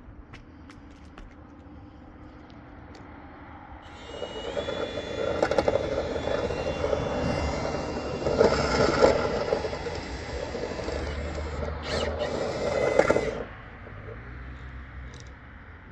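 A power tool runs with a scraping sound, starting about four seconds in and cutting off shortly before the end, after a few faint clicks.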